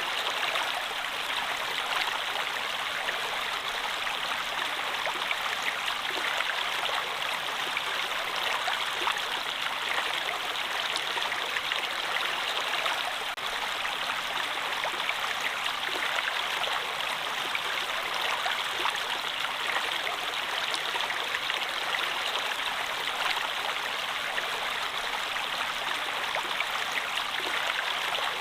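A stream of water flowing steadily: an even, unbroken rushing with no change in level.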